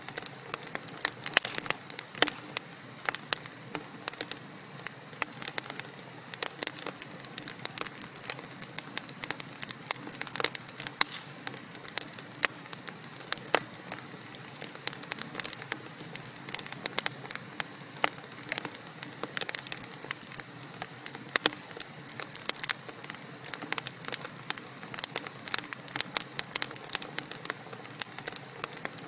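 Wood fire in a fireplace crackling, with frequent sharp pops and snaps over a steady low hiss of burning logs.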